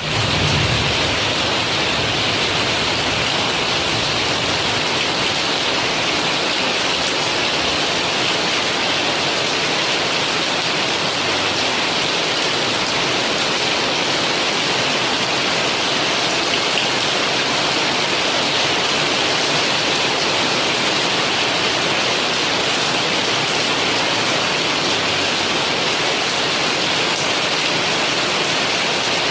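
Heavy rain falling steadily in a constant, even hiss.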